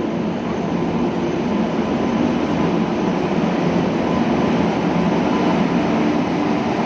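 Goods train hauled by two locomotives running: a steady rumble with a low, even engine drone, growing a little louder over the first two seconds.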